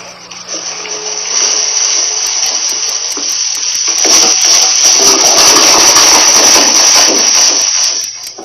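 Loud, steady hissing rush of noise that swells in over the first second or so and drops away shortly before the end.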